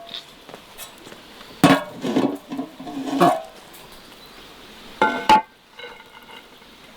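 Kitchenware knocked and clattered: a few sharp knocks with short ringing, the last two close together about five seconds in.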